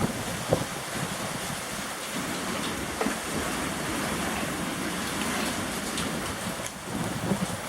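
Rain falling in strong, gusting wind: a steady rushing noise, with a few sharp taps of drops or debris standing out.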